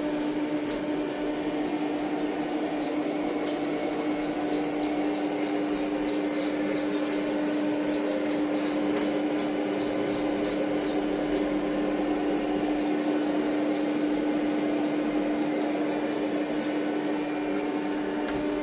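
A steady machine hum holding one pitch. In the middle stretch, a series of short, high chirps comes about twice a second for several seconds.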